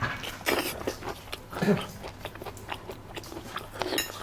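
Close-miked eating: bites and chewing with short crackly crunches, as a big black tiger shrimp is eaten.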